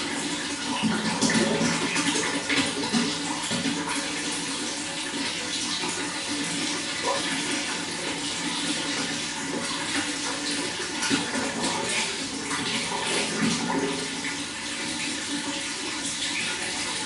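Running water flowing steadily, a continuous splashing with many small gurgles and spatters.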